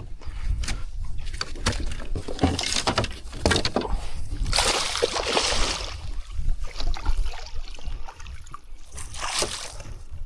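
Water splashing and sloshing as a hooked small wild carp is drawn in and landed, with irregular knocks of handling; the biggest splash comes about halfway through.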